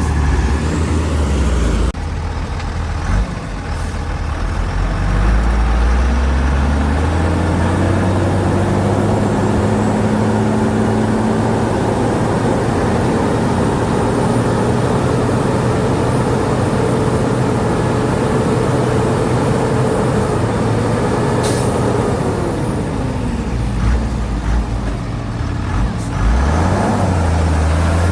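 Heavy diesel engine of earthmoving machinery working under load: it revs up a few seconds in, holds high revs for a long stretch, then eases back down near the end.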